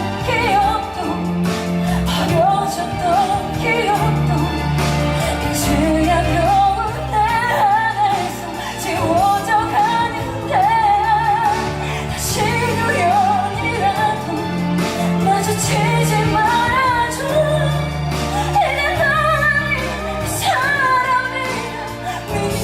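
A woman singing with vibrato over instrumental accompaniment with sustained bass notes.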